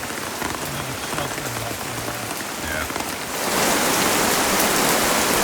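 Heavy rain falling steadily, growing louder about three seconds in.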